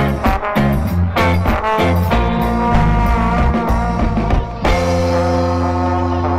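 Live band playing an instrumental passage with no vocals: a rhythmic, punchy groove that gives way to long held chords about four and a half seconds in.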